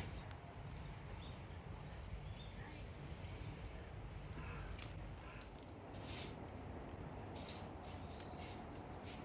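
Dried wood burning in a stainless steel secondary-combustion fire pit: a low steady rumble of flame with scattered crackles and pops, one sharper pop about five seconds in.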